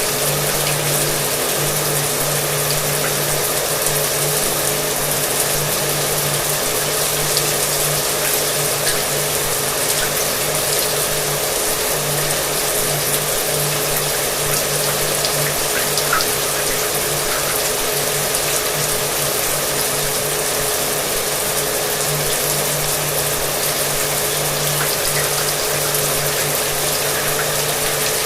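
Shower water running steadily over a hair dryer's motor: an even hiss of spray with a steady low hum underneath.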